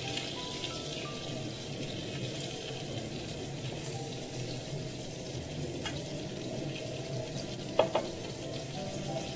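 Lamb chops sizzling in hot oil in a nonstick frying pan with garlic cloves and rosemary, a steady frying hiss during their second pan-frying. About eight seconds in, two quick sharp clicks as chopsticks knock against the pan.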